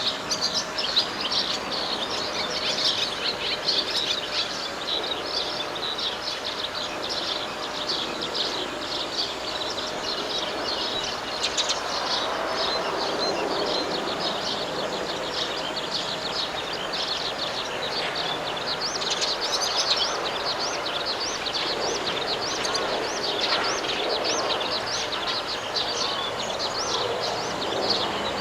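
Many small birds chirping rapidly and continuously, with a low rumble underneath that swells and fades.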